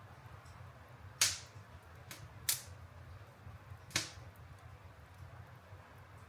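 Wood fire popping: three loud, sharp snaps about a second and a half apart and one fainter one, with small faint crackles, over a low steady hum.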